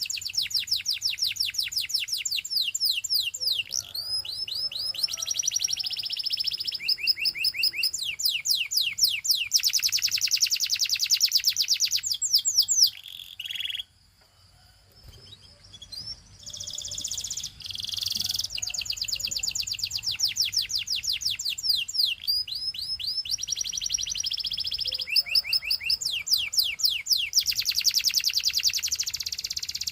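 Canary singing in long runs of rapid, evenly repeated trill notes, with a break of about two seconds near the middle before the song resumes.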